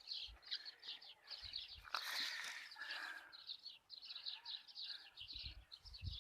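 Small bird chirping rapidly and repeatedly, a few short high chirps a second, with a brief rustle about two seconds in.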